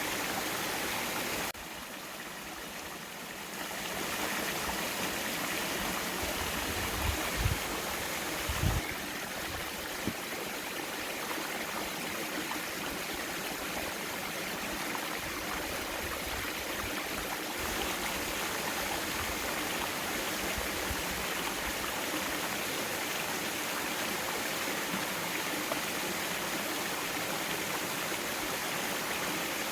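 Mountain valley stream flowing over rocks, a steady rushing hiss of water. It drops briefly in level about a second and a half in, then returns, with a few short low bumps near the eight-second mark.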